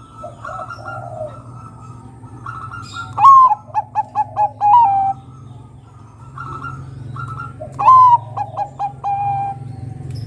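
Zebra dove (perkutut, Bangkok type) singing two song phrases. Each opens with a loud coo, runs into a rapid string of short cooing notes, and ends on a drawn-out note. Softer coos and a low steady hum are heard between the phrases.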